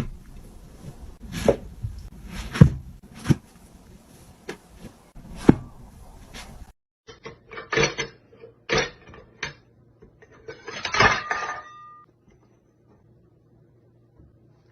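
A series of sharp knocks and clattering impacts, spaced about a second apart.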